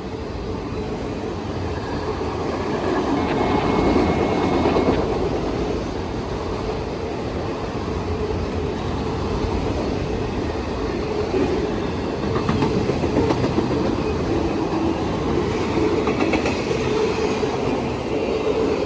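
Freight train rolling past, a continuous rumble of wheels on rail that swells over the first four seconds and then runs on steadily. A faint thin squeal is heard for a moment about three seconds in.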